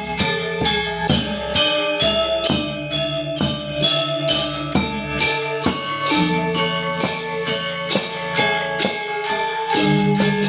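Balinese gamelan ensemble playing: tuned bronze percussion struck in a quick, steady stream of notes, with ringing pitched tones under metallic crashes.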